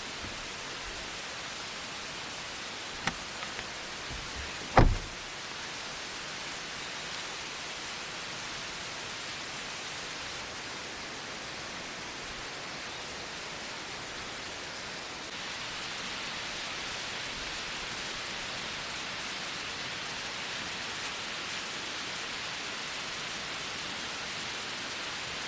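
Steady outdoor hiss with a few light clicks about three seconds in and a single louder knock about five seconds in; the hiss turns slightly louder about fifteen seconds in.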